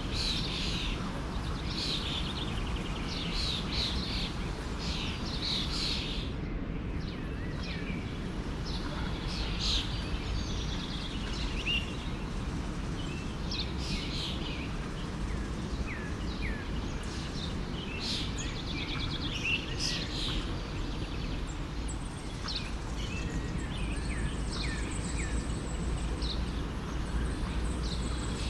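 Forest stream flowing with a steady rush, under many songbirds chirping and calling in short whistled notes throughout.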